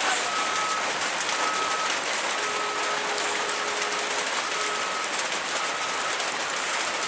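Heavy rain falling steadily, with a high beep repeating about once a second in the background.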